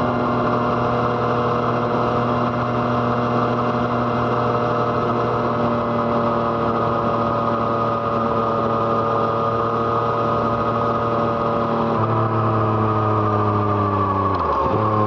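Yamaha MT-09's three-cylinder engine running through an aftermarket Arrow Thunder exhaust at low, steady revs, its pitch sinking slowly. Near the end the note shifts and falls faster, with a brief dip in revs.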